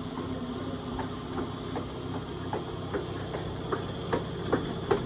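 Aoimori Railway 701 series electric train: a steady low hum with sharp clicks, about two to three a second, getting louder toward the end.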